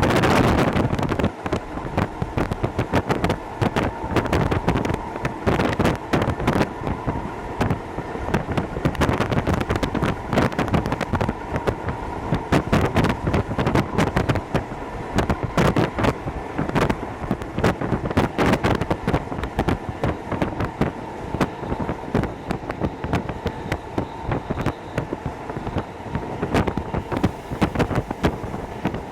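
Hokuso Railway 7260 series electric train running along the line, heard from inside the car, with steady wind buffeting the microphone.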